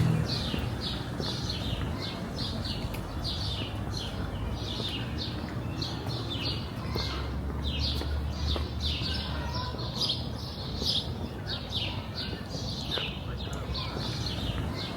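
Birds chirping continuously in quick, short, falling notes, several a second, over a low, steady background rumble.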